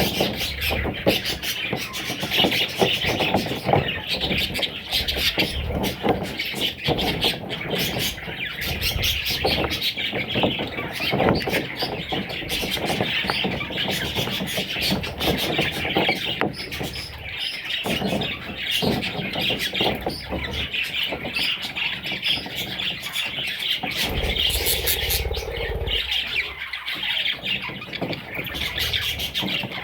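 Budgerigar chicks calling without pause, a dense chatter of short, high calls.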